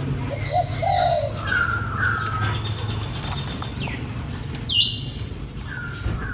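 Spotted dove giving a short phrase of low coos about half a second in, with smaller birds chirping higher notes around it.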